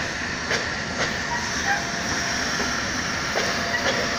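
ED72 electric multiple unit rolling slowly into the platform, its wheels clicking irregularly over rail joints, about twice a second, over a steady rumble and hiss.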